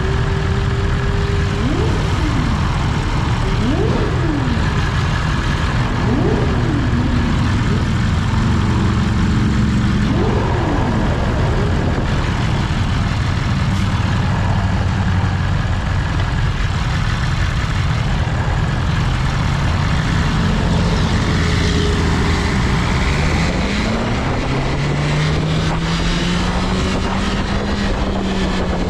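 BMW S1000RR's 999 cc inline-four pulling hard through several gears in the first ten seconds, each rising rev cut short by a quick upshift. After that it runs at a steadier speed, with the revs slowly rising and easing near the end, under heavy wind and road noise.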